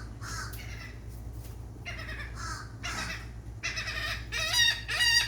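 Seagulls calling: a run of short, harsh squawks that get louder and come faster in the second half.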